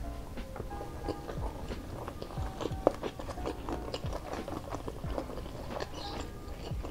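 Close-up chewing and wet mouth sounds of someone eating spicy stir-fried squid and rice by hand, with many small smacks and clicks and one sharper click about three seconds in.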